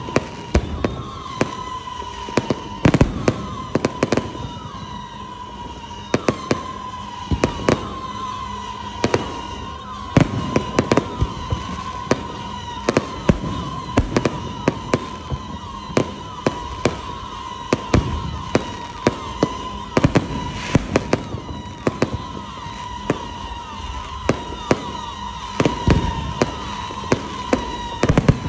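Aerial fireworks display: a dense run of sharp bangs from bursting shells, several a second at times, over a continuous wavering high whistle.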